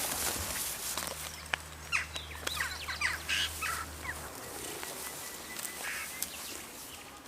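Birds calling: a flurry of short, quick chirps, mostly in the first half, then fainter calls.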